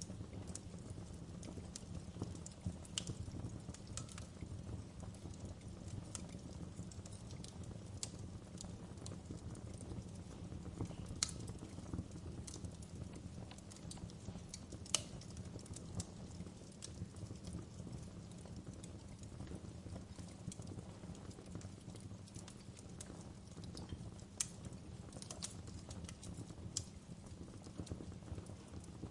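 Wood campfire burning with a steady low rumble and scattered sharp crackles and pops, the loudest about halfway through.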